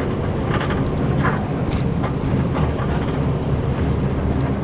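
Steady low rumble of an intercity bus's engine and road noise, heard from inside the passenger cabin, with a few faint short sounds over it.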